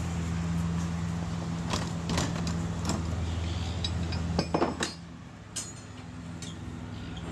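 A 1913-built vintage tram running, with a steady low electric hum and scattered clanks and rattles. The hum drops away about five seconds in, then comes back more faintly.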